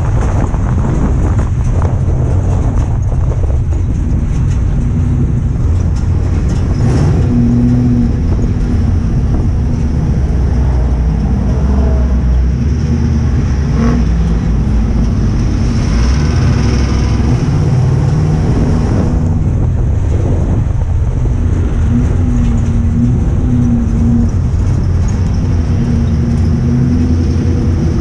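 Ford Crown Victoria's V8 engine running hard under racing load, heard from inside the stripped, caged cockpit, its note rising and falling as the car works around the track.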